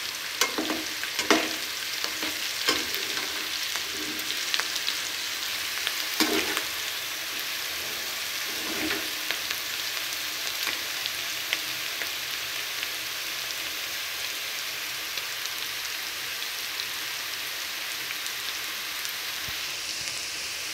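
Diced potatoes and green chillies sizzling steadily in hot oil in a metal karahi. In the first half a metal slotted spoon stirs them, scraping and knocking against the pan now and then, and the knocks thin out later.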